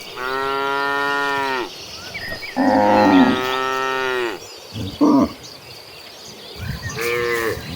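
Cattle mooing: a long moo at the start, another about two and a half seconds in, a short one near the five-second mark and one more near the end.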